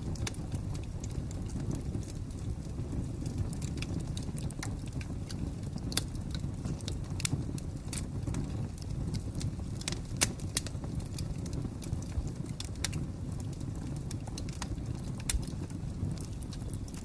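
Fire crackling: irregular sharp pops and snaps, a few louder than the rest, over a steady low rushing sound.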